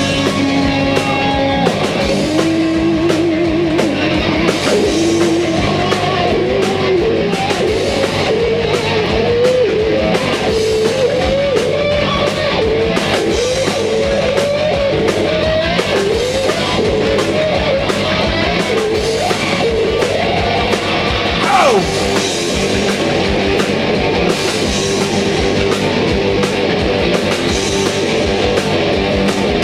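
Live rock band playing an instrumental break: a lead electric guitar wanders and bends notes over steady drums and bass, with one quick downward slide about two-thirds of the way through.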